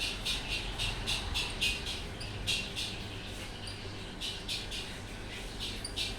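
Ceiling fan running with a low hum, and a short high squeak repeating about four times a second that comes and goes in spells.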